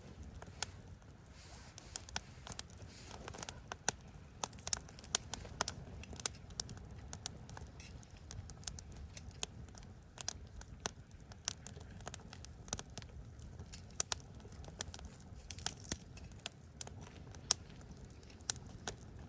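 Wood campfire crackling, with frequent sharp, irregular pops over a low steady rumble.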